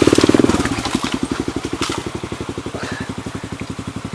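Motorcycle engine idling with an even putter. It runs a little higher and louder at first and drops back to a steady idle about half a second in.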